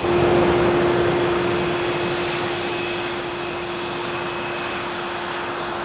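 Jet aircraft engine running: a dense rush with a steady droning tone and a thin high whine above it. It starts suddenly and eases off slightly in level.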